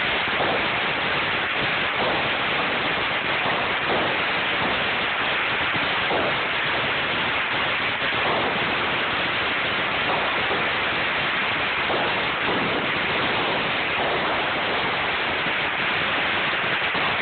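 Dense, unbroken crackling of many firecrackers going off at once, a steady rain-like din with faint individual pops in it, heard through a phone's microphone.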